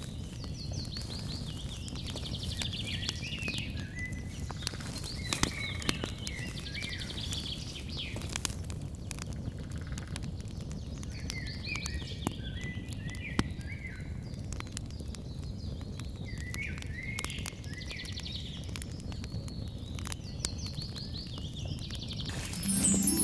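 Birds chirping in short repeated phrases, with scattered sharp crackles and pops from a wood campfire of glowing embers. Music starts right at the end.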